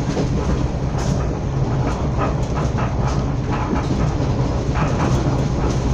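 Passenger train running, heard from inside the carriage: a steady low rumble with irregular clacks of the wheels over the rail joints.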